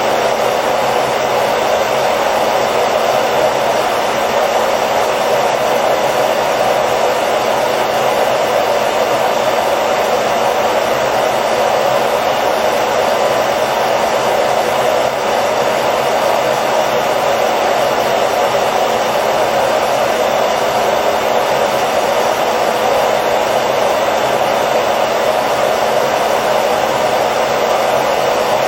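Hair dryer running steadily, a loud continuous whooshing blow with a faint whine in it, never changing.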